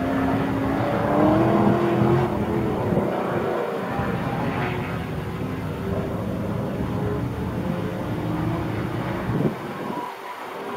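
Car engines revving up and down, their pitch rising and falling several times as they speed up and change gear.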